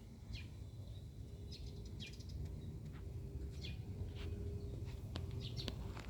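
Birds chirping in short, falling calls about once a second, over a faint, steady low rumble.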